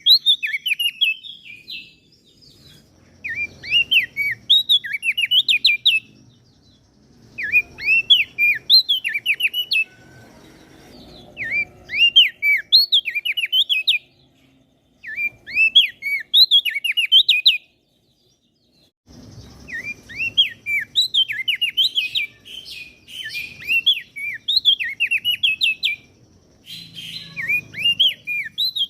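Small songbird singing in repeated bursts of rapid, high chirping notes, each burst a couple of seconds long with short pauses between, and a longer unbroken run of song in the second half.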